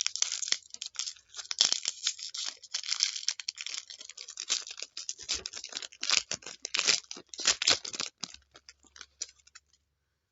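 A trading-card pack wrapper being torn open and crinkled, with dense crackling and sharp clicks that thin out about eight seconds in.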